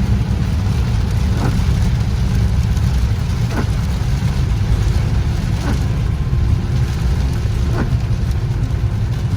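Steady low rumble of a car driving through heavy rain, heard inside the cabin. A short sweep repeats about every two seconds, in the rhythm of windshield wipers.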